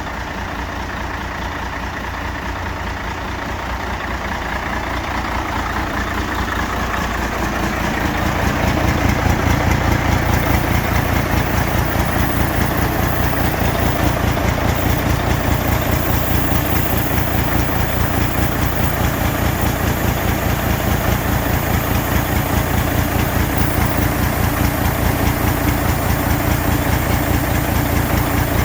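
Mercedes-Benz 4143 8x4 tipper truck's diesel engine running with an even firing pulse. It grows louder over several seconds, starting about four seconds in, then holds steady.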